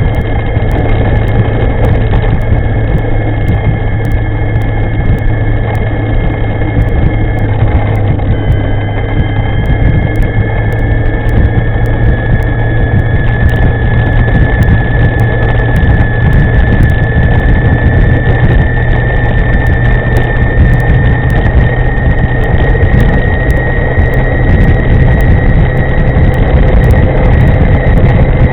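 Electric scooter's motor whining while riding, the whine dropping about eight seconds in and then slowly rising in pitch as speed builds, over a loud steady rush of wind on the microphone.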